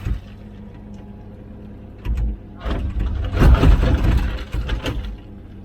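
Komatsu PC16 mini excavator's diesel engine running steadily. From about two seconds in, it is joined by louder bursts of bucket scraping and knocking as it digs.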